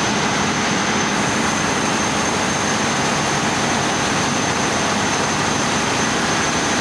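Steady, loud drone of ship's engine-room machinery running, with a faint high whine held throughout.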